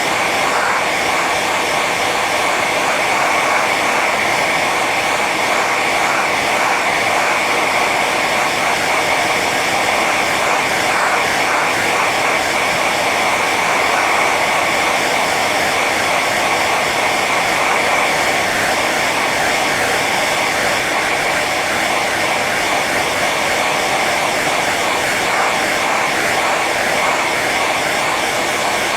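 Hair dryer running on its high setting: a steady rushing of blown air with a faint high whine from the motor, unchanging throughout.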